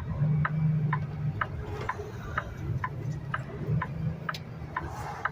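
Semi truck's turn signal ticking steadily, about two clicks a second, for a left turn, over the low drone of the truck's engine in the cab.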